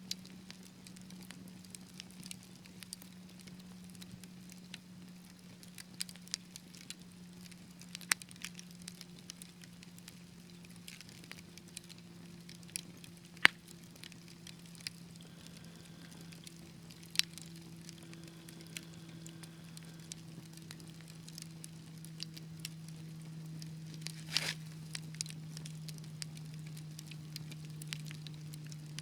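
Wood fire in a fireplace crackling, with irregular sharp pops, a few of them louder, over a low steady hum that sinks slowly in pitch.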